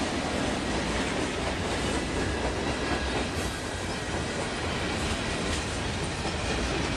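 Freight cars of a long manifest train rolling past at track level: a steady rumble of steel wheels on rail with a clickety-clack from the wheels.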